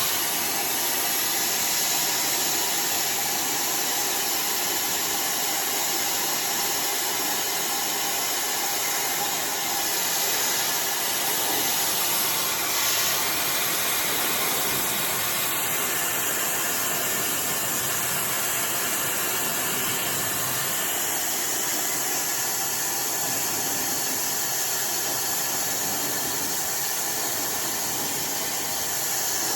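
iDryer AI Pro Style hair dryer blowing steadily, an even rush of air with small shifts in tone.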